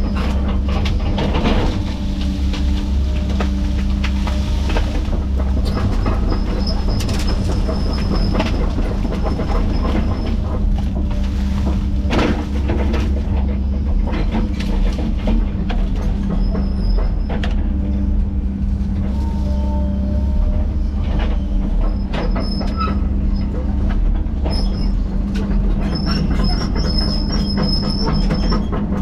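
Heavy tracked diesel machinery working steadily, with a low engine drone, scattered knocks and clanks, and brief high squeals, several of them in the last few seconds.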